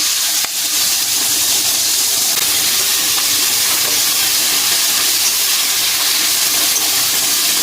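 Onion frying with cumin seeds in hot oil in a pan: a steady, loud sizzle that cuts off abruptly.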